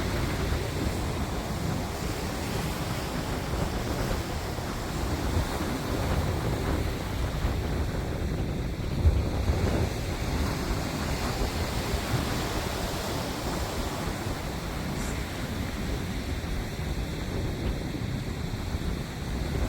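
Wind rushing and buffeting over the microphone, a steady low rumble with a brief louder gust about nine seconds in.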